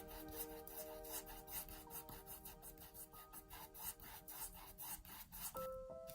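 Paintbrush scrubbing on canvas in repeated short strokes, about three a second, over soft background music.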